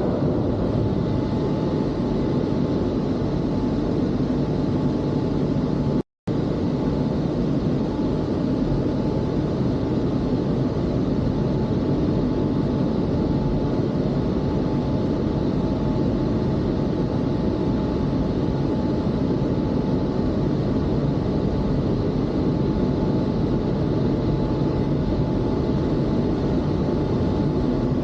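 Automatic car wash machinery running: a steady rumbling rush with a faint steady whine. It cuts out for a moment about six seconds in, then carries on unchanged.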